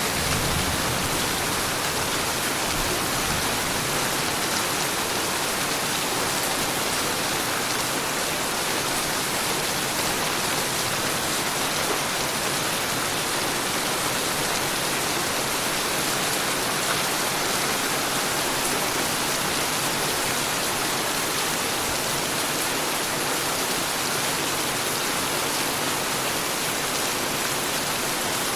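Heavy rain falling steadily, a dense even hiss of drops on surfaces with no thunder and no distinct single events.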